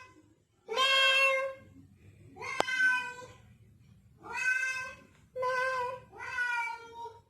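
A toddler imitating a cat, giving about six meows in a row. The meows are short and separated by brief pauses.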